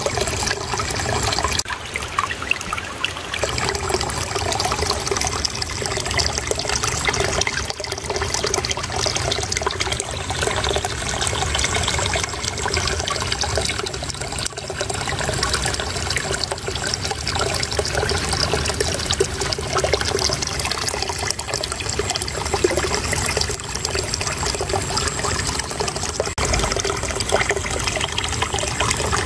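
Shallow water flowing and babbling steadily in a small stream or channel, a continuous trickling splash.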